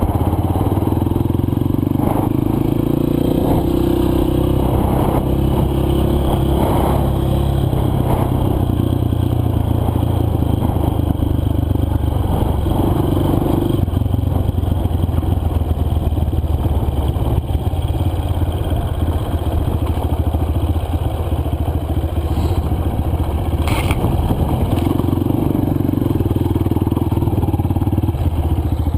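Four-stroke single-cylinder dirt bike engine running on a dirt trail, its pitch rising and falling as the throttle changes. Now and then the bike clatters and knocks over rough ground.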